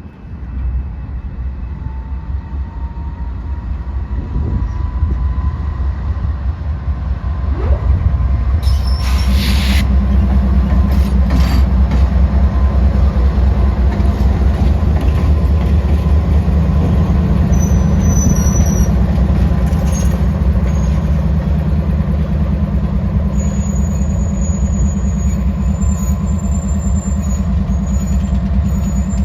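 Norfolk Southern diesel locomotive leading a coal train: a low, throbbing engine rumble that builds over the first several seconds and then holds steady and loud, with a thin steady whine above it.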